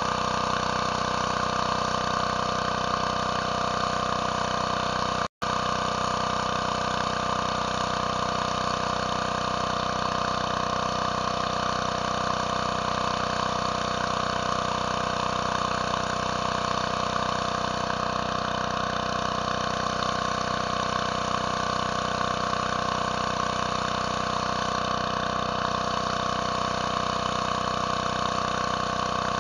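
Pressure washer engine running steadily under load, with the hiss of its water spray. The sound cuts out for an instant about five seconds in.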